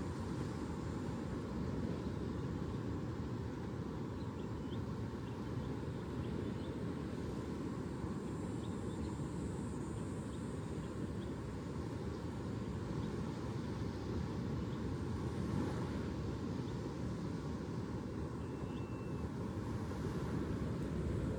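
Steady low outdoor rumble at an even level, with a few faint short chirps high above it now and then.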